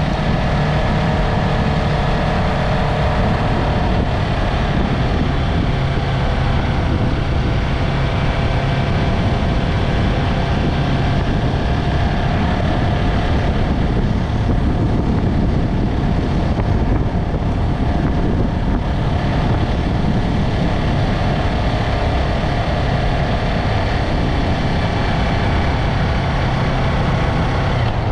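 Yamaha MT-03 motorcycle engine and exhaust running at steady revs while riding, with road and wind noise.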